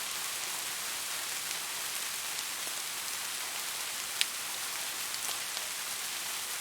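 Steady rain falling, a dense even patter with scattered individual drop ticks and one sharper, louder drop strike about four seconds in.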